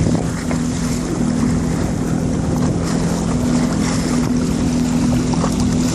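Personal watercraft engine idling steadily at low speed, with wind on the microphone and water splashing against the hull.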